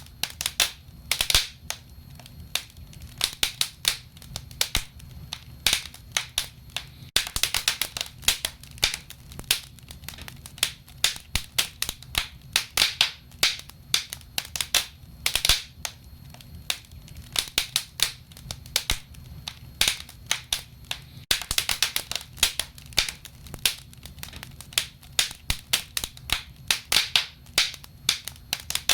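Wood fire crackling, with frequent sharp pops and snaps at irregular intervals over a low steady background.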